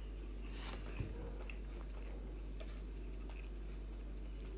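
Faint chewing of a mouthful of chickpeas and rice, with small scattered clicks over a steady low hum; a soft knock about a second in.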